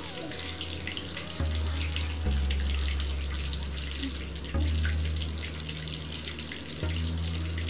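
Whole eggplant frying in hot oil in a small pan: a steady, dense sizzle full of fine crackles. A low hum cuts in and out several times underneath.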